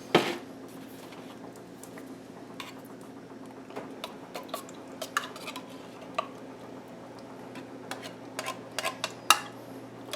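Scattered light clinks and scrapes of a spoon against metal cans and a pan as thick condensed cream of chicken soup is spooned out. Under them runs a steady low hum from a refrigerator.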